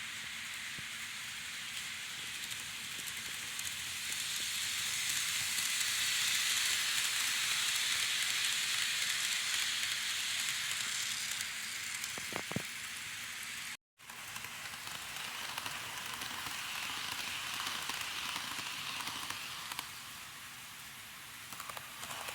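KATO N-gauge powered model train car running on track, a steady rattling hiss that breaks off abruptly for a moment about two-thirds of the way through and then carries on.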